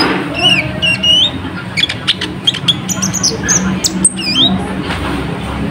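Konin (kolibri ninja) sunbird singing: a fast run of sharp, high chirps and short rising and falling whistles.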